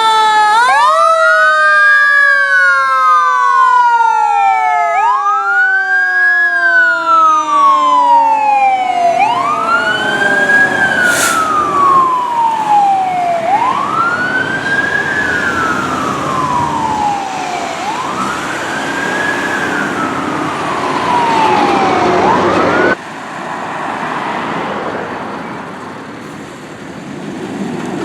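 Fire truck sirens wailing as the apparatus responds. Several sirens overlap at first, then one siren keeps rising quickly and falling slowly, about every four seconds. The siren sound cuts off abruptly near the end, leaving fainter road noise.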